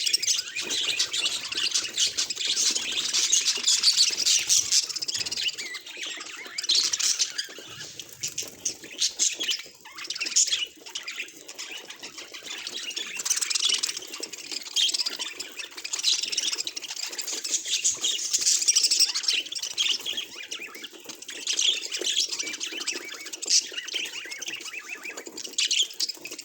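Budgerigar chattering and warbling: a fast, unbroken run of high chirps and scratchy squawks, easing off briefly about a third of the way through.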